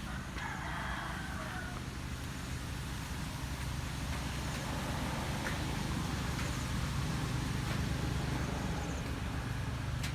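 A rooster crows once, about half a second in, lasting about a second and a half, over a steady low hum and hiss.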